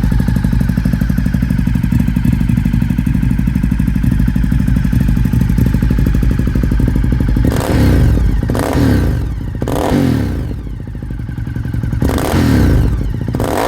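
Ducati Diavel Carbon's L-twin engine through a full de-cat Termignoni exhaust, idling with a steady, even beat. About halfway through, the throttle is blipped several times, the revs rising and falling back each time.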